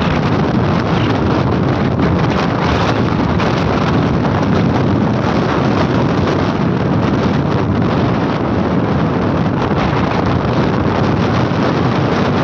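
Strong wind buffeting the microphone: a loud, steady rushing roar with no pauses.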